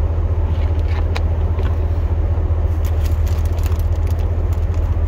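Pickup truck engine idling, a steady low rumble, with a few faint ticks and clicks over it.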